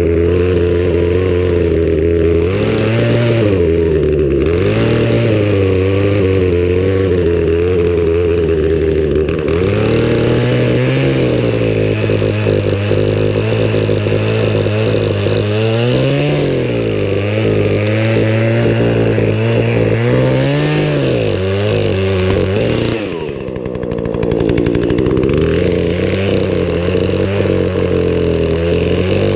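Poulan Pro two-stroke chainsaw running at a steady idle, its pitch rising briefly in several short throttle blips. About two-thirds through, the engine sags lower and quieter, nearly dying, then picks back up to idle.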